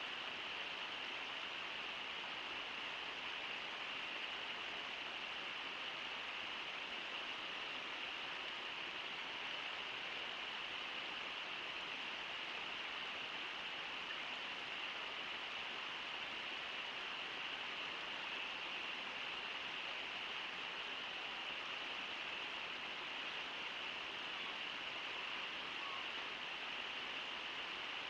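Steady rush of the Brooks River pouring over Brooks Falls, an even, unbroken water noise.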